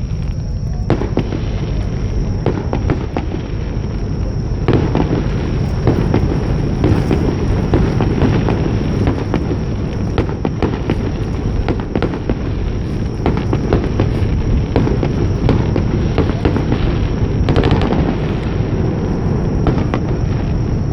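Fireworks display: aerial shells bursting one after another in a dense barrage of booms and crackles over a continuous low rumble, starting about a second in and growing denser from about five seconds in.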